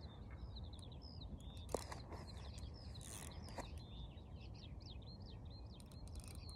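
Small birds chirping and twittering in quick repeated notes, over a low steady rumble, with one sharp click about two seconds in.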